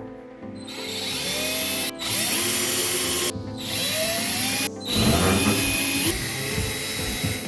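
Electric drill/driver driving screws in several runs with short pauses between them, with background music underneath.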